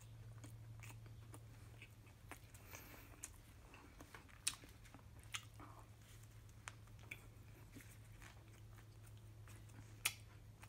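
A person biting into and chewing a burger, heard as faint scattered mouth clicks and smacks, a few a little louder, over a low steady hum.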